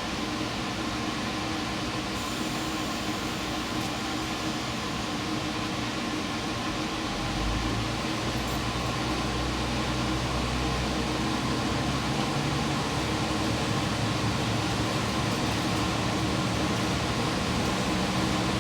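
Running noise inside a diesel limited-express train: a steady mechanical hum and rail noise. About seven seconds in, a deeper engine drone comes in and the sound grows slightly louder.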